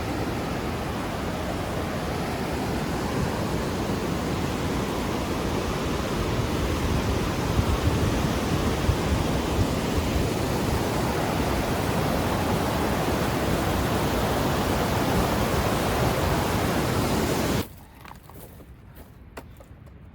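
Steady rush of fast-flowing mountain water, loud and even. It cuts off suddenly near the end, leaving only faint small clicks.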